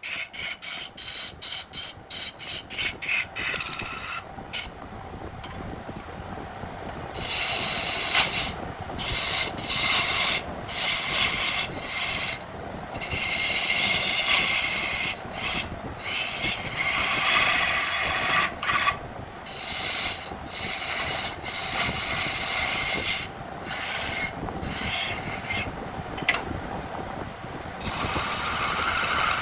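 Woodturning on a lathe: a turning tool scraping against a spinning burl log. It opens with a run of quick, regular ticks, about three or four a second, then turns to a rasping scrape that stops and starts in short spells.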